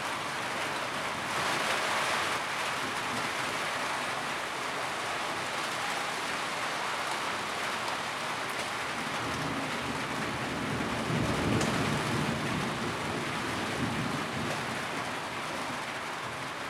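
Steady rain drumming on a tin roof, a dense hiss of drops, swelling briefly about two seconds in, with a low rumble building in the middle of the stretch.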